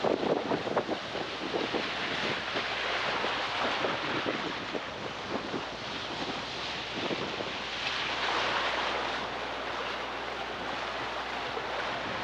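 Fast tidal current rushing and splashing against a sailboat's hull, with irregular crackling splashes in the first half and wind buffeting the microphone.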